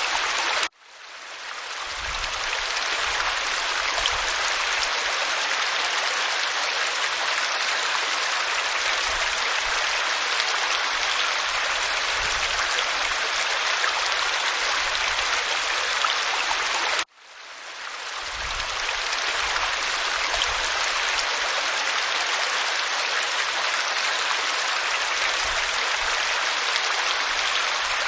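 Steady rush of a waterfall splashing over rock. The sound cuts out abruptly about a second in and again around the middle, each time fading back up over a second or two, like the seam of a looped recording.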